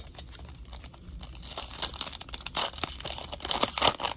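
Plastic wrapper of a baseball card pack crinkling and tearing as it is handled and opened, the crackling building up about a second in and strongest in the second half.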